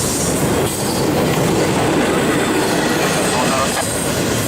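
Union Pacific double-stack container train rolling past, its wheels on the rails making a steady, loud rumble.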